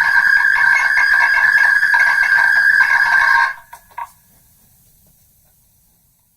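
Megaphone playback of a recording re-recorded through megaphones many times over, the speech eroded into a steady, loud, buzzing ring with no words left. It cuts off suddenly about halfway through, followed by two short clicks.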